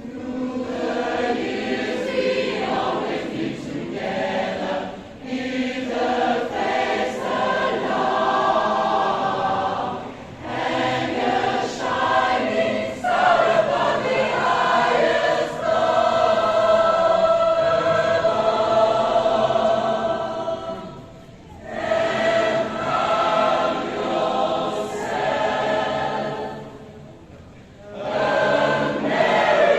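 A choir singing, with long held notes, and short breaks between phrases about ten seconds in, around twenty-one seconds and near twenty-seven seconds.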